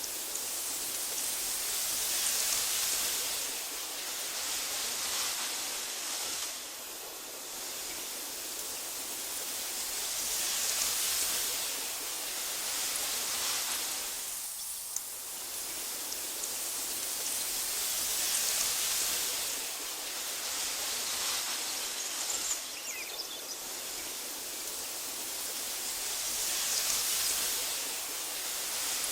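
Wind blowing through tall meadow grass: a steady hiss that swells in gusts and eases again about every eight seconds. A few faint clicks come about two-thirds of the way through.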